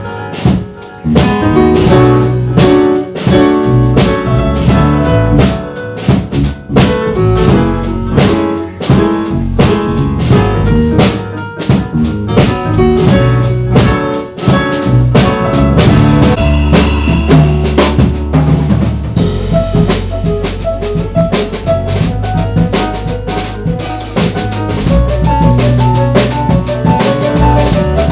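Jazz piano trio playing: piano, bass and drum kit, with busy drumming to the fore, snare and bass drum hits under piano notes and a walking low bass line. The cymbals swell into a bright wash near the end.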